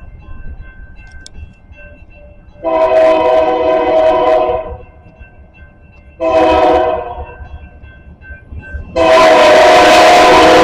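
Locomotive air horn sounding a chord: a long blast, a short one, then another long blast starting about nine seconds in, over the low rumble of the passing locomotive.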